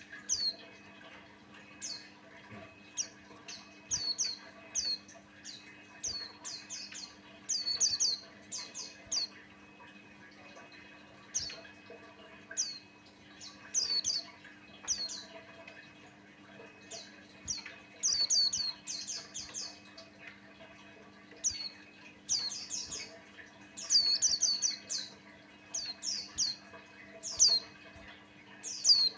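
White-eye singing: clusters of short, high chirps that sweep downward, given in bursts every second or two with brief pauses between. A faint, steady low hum runs underneath.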